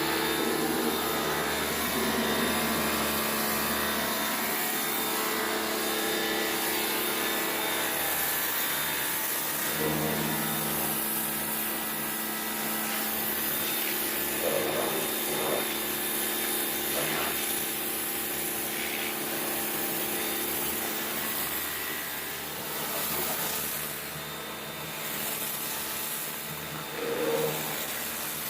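Kärcher K2 Black electric pressure washer running, its motor and pump humming steadily under the hiss of the water jet from its turbo nozzle.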